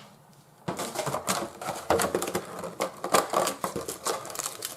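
Booster packs and box contents being handled on a table: a quick run of light clicks, taps and crinkles that starts about a second in.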